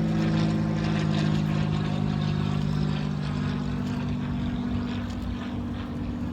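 Steady engine drone with a few low humming tones that hold their pitch, slowly fading a little in the second half.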